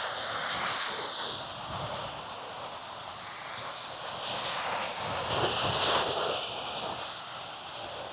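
Surf breaking on a sandy beach: a steady rushing wash that slowly rises and falls.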